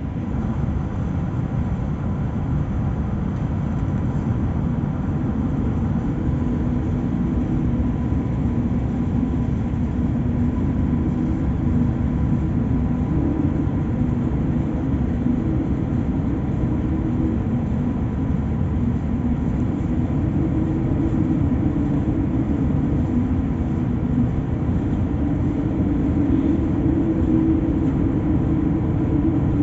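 Strong wind at sea making a steady, loud low rumble, with a steady hum underneath.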